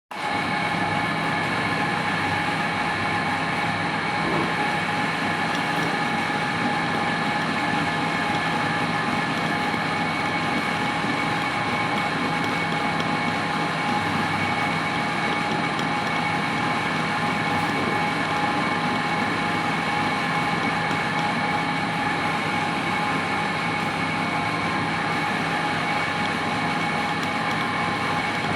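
Metal lathe running steadily while turning a small nut, a constant machine noise with several steady high-pitched tones in it.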